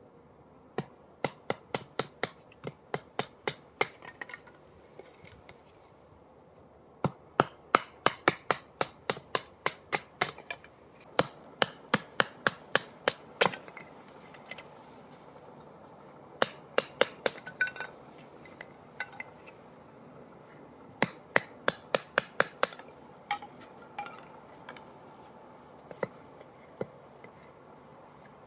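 Repeated hammering blows, about four a second, in runs of a few seconds with pauses between them, thinning to a few single strikes near the end.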